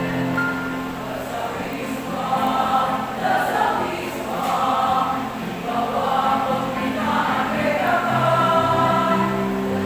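Women's choir singing a song in several voices over instrumental accompaniment that holds low sustained notes.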